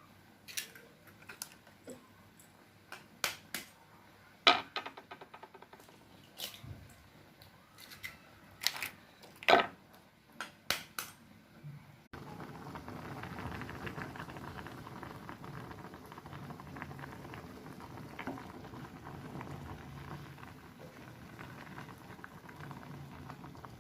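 Kitchen utensils and cookware clinking and knocking in short, scattered strikes, then a steady crackling sizzle of an egg frying in hot oil that starts suddenly about halfway through.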